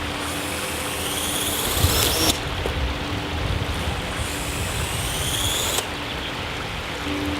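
Parrot AR.Drone 2.0 quadcopter's electric motors spinning up with a rising whine, then cutting out suddenly, twice: about two seconds in, with a knock, and again near six seconds. These are failed takeoff attempts, with the propellers mounted all turning the same way so the drone flips over instead of lifting off.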